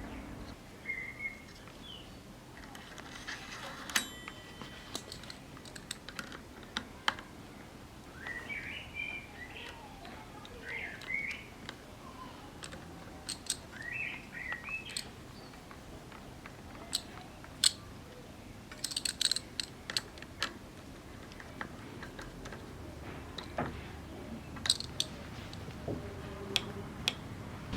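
Scattered light clicks and taps of bicycle parts and tools being handled during assembly, a few at a time at irregular intervals.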